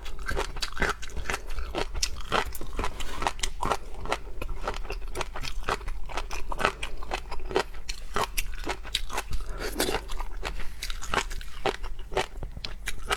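Close-miked crunching and chewing of shellfish, many sharp crackles a second as shells and flesh are bitten and chewed.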